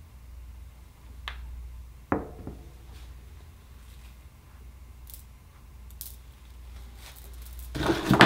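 A few light clicks and knocks from tools and small dishes being handled on a tabletop, with a louder clatter near the end, over a low steady hum.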